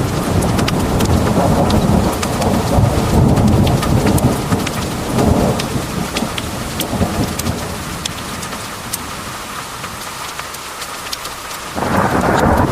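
Heavy rain pouring with sharp individual drop ticks over rolling thunder. The low rumble eases off over the second half, then swells back abruptly near the end.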